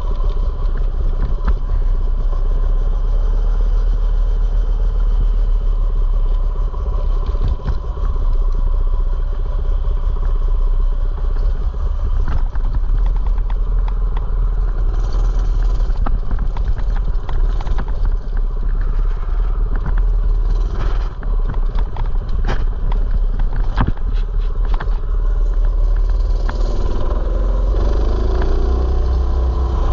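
Mini bike's small engine running steadily while being ridden, with a heavy low rumble and scattered clicks and rattles. The engine note wavers near the end.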